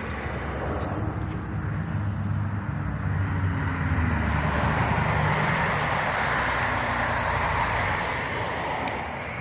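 A motor vehicle drives past on the street, its engine hum growing to its loudest about halfway through and fading near the end, over steady traffic noise.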